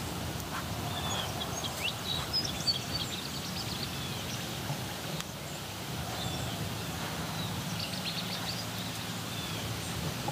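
Small birds chirping and calling in short, scattered notes over a steady low rumble of open-air background noise.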